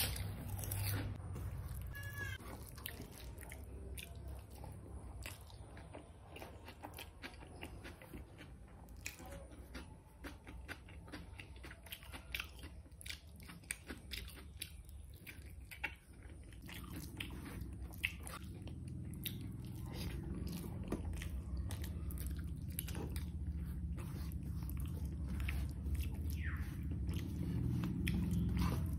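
Close-miked mukbang eating sounds: a person chewing with many small wet mouth clicks and some crunching. Underneath is a steady low hum that grows louder in the second half.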